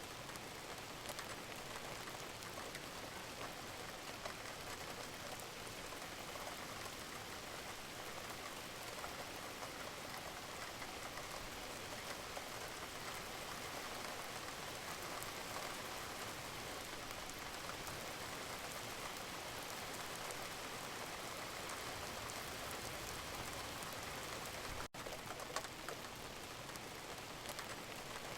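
Steady rain falling, with many fine drops pattering on a surface, even and unbroken apart from a momentary dropout near the end.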